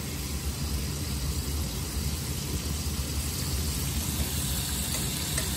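Flour-dredged deer meat frying in hot oil in a pan: a steady sizzle over a low hum.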